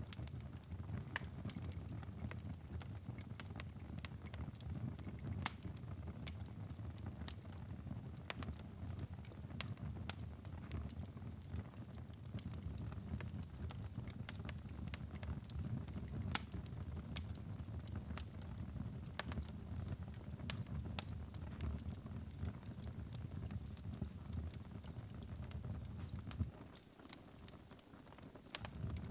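Wood fire burning in a fireplace: a steady low rumble of flames under frequent sharp crackles and pops. The low rumble drops away briefly near the end while the crackles go on.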